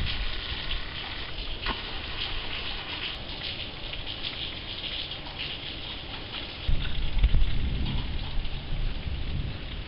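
Steady heavy tropical rain pattering down in a thunderstorm. About two-thirds of the way through, a low rumble swells for a few seconds.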